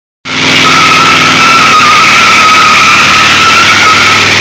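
Pontiac Firebird doing a burnout: spinning tires squeal loudly and steadily on the pavement over the running engine. The sound cuts in abruptly just after the start.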